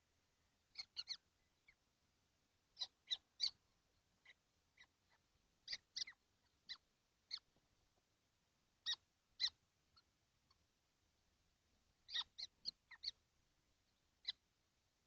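Young kestrels in a nest box giving short, sharp calls, one to four at a time, every second or two, with a pause of about two seconds after the middle.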